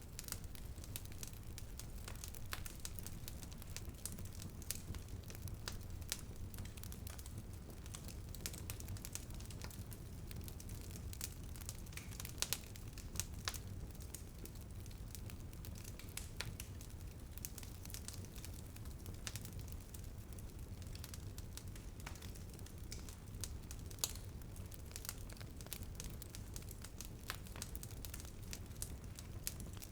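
Wood fire in a fireplace crackling, with irregular small pops, a few of them sharper, over a low steady rumble.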